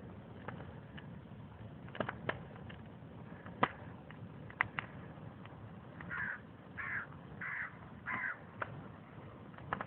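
Bonfire crackling, with scattered sharp pops over a low steady rustle. About six seconds in, a bird caws four times in quick succession.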